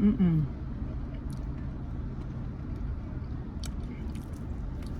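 Someone chewing fried chicken, with scattered small crunchy clicks over a steady low hum. A brief hummed 'mmm' trails off right at the start.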